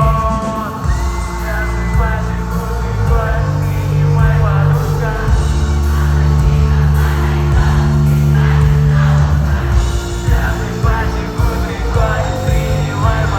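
Live rock band playing loud, with a heavy sustained bass line and singing over it.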